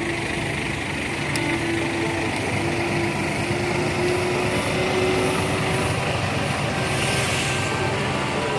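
Tour bus engine running steadily, its note rising slowly over a few seconds, with a brief hiss about seven seconds in.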